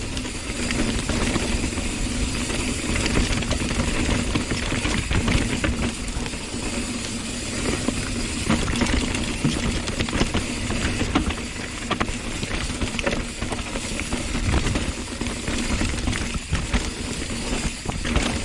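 Hardtail mountain bike descending a rough, rocky trail: a steady rush of tyre and wind noise with many rattles and knocks from the frame and chain over the bumps.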